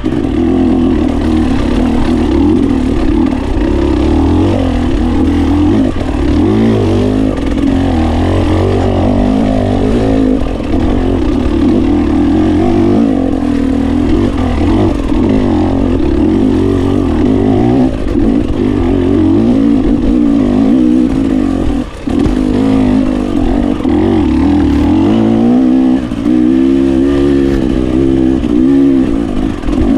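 GasGas 300 two-stroke enduro motorcycle engine running hard as it is ridden, the revs rising and falling constantly with the throttle, with a brief drop about three-quarters of the way through.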